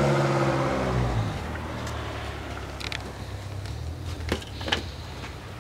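A motor vehicle's engine fading away as it moves off, followed by a low steady hum and a few sharp clicks.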